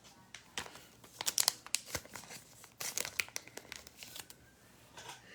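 Thin plastic card sleeves crinkling as trading cards are slid into them and handled: a run of irregular light crackles and clicks that dies down about four seconds in.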